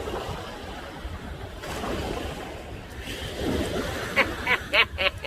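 Ocean surf washing against the shore, a steady rushing noise. Near the end, a quick run of sharp clicks comes in, about four a second.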